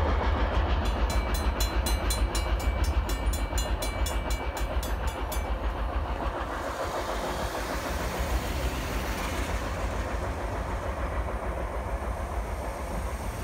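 Norfolk Southern freight train of ethanol tank cars rolling past with a heavy low rumble that eases off after about six seconds. For the first few seconds a rapid, high-pitched repeating beep sounds over it.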